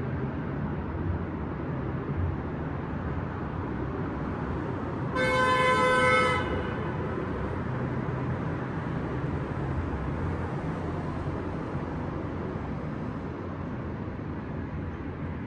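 Steady low hum of city street traffic, with a single car horn honk lasting about a second, about a third of the way in.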